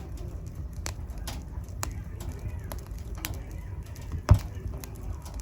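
Wood fire burning in a fireplace: a steady low rumble with irregular sharp crackles, and one loud pop about four seconds in.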